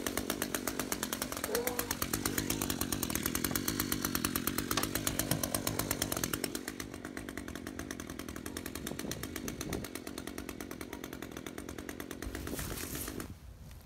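Echo 210 string trimmer's small two-stroke engine idling with a rapid, even putter, quieter from about halfway, then cutting off near the end.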